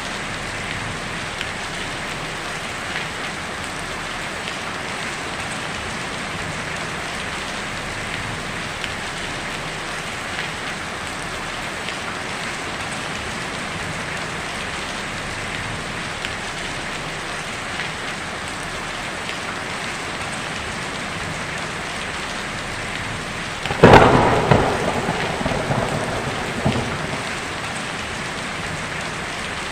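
Heavy rain drumming steadily on a tin roof. About three-quarters of the way through, a sharp, loud thunderclap breaks in and rumbles away over a few seconds.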